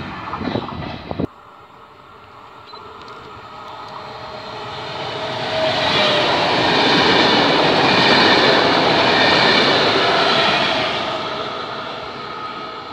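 A double-deck electric passenger train passes at speed with a rising and falling rush of wheel and rail noise, loudest in the middle. It is preceded by a second or so of a freight train of hopper wagons clacking over the rail joints, which cuts off suddenly.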